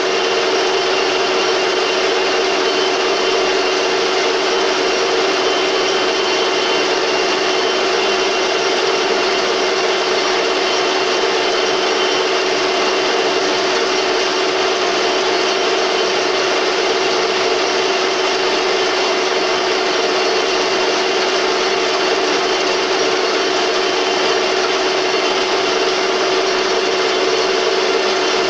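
Metal lathe running at a steady speed: a constant hum and whine over an even hiss, with no change in speed or load.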